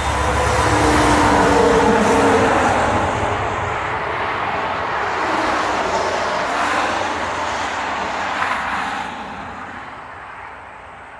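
Engine of a passing motor vehicle, loudest about two seconds in and fading away over the last few seconds.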